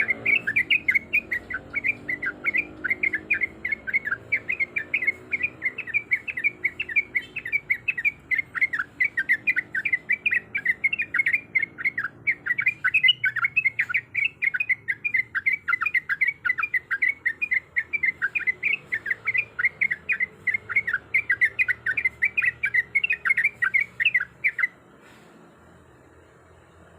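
Sooty-headed bulbul (trucuk) singing its rapid rolling song: a long, fast run of short repeated notes, about five a second, which stops abruptly near the end.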